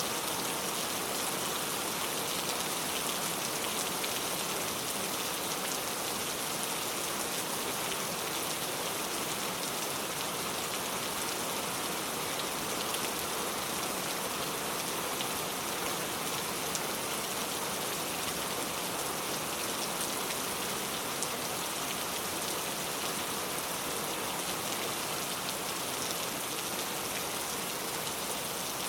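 Steady rain falling, an even hiss with many small drops pattering on surfaces.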